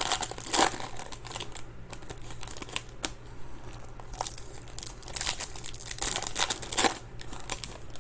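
Trading-card pack wrappers crinkling and tearing in irregular bursts as packs of baseball cards are ripped open and handled.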